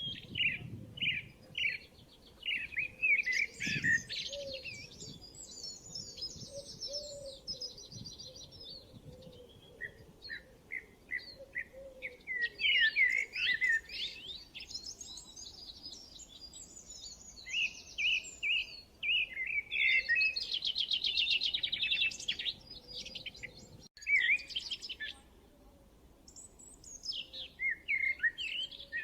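Several songbirds singing: quick repeated chirps mixed with fast, rattling trills, with a short lull a little before the end.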